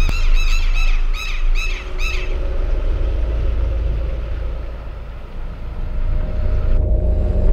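A bird gives a rapid series of loud, repeated calls, about three a second, that stop about two seconds in. A steady low rumble runs underneath, and near the end the high hiss drops out abruptly.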